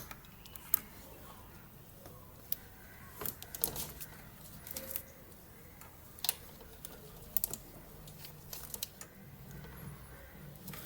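Scattered light clicks, taps and clinks of hand tools and parts being handled, at irregular intervals rather than a steady rhythm.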